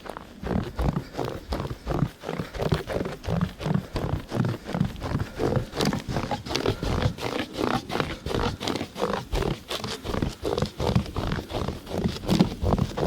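A person running on snow, footfalls at an even pace of about three a second, with heavy breathing close to the microphone.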